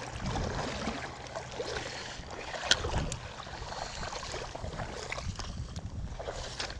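Wind and water noise, with a few light clicks and knocks of fishing gear being handled.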